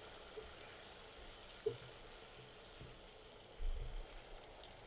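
Faint sizzling of tomato and onion masala frying in a karahi as a wooden spatula stirs it, with a soft low thump about three and a half seconds in.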